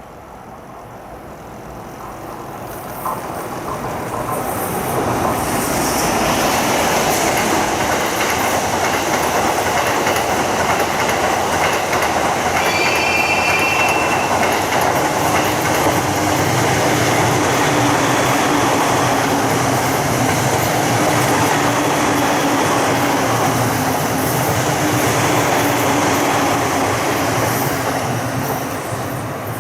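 A long locomotive-hauled passenger train, an EF510 electric locomotive with E26-series sleeper coaches, passing close by with wheels clattering over rail joints. The noise builds over the first few seconds, holds steady and loud, then fades near the end. A brief high-pitched squeal comes about halfway through.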